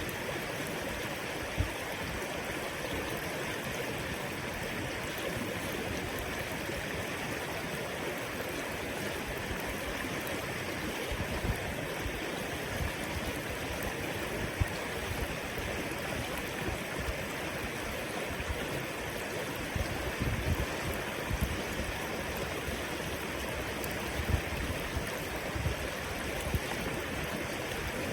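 River water flowing steadily, with a few brief low bumps here and there.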